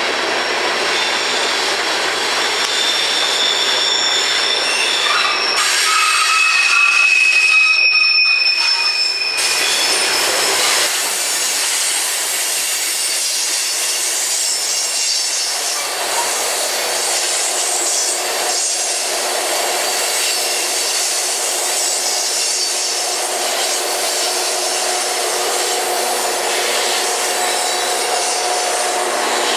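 Freight train of coal hopper cars rolling past at speed, with wheels squealing in steady high-pitched tones over the rumble for about the first ten seconds. Near the end the drone of the rear locomotives' engines comes in.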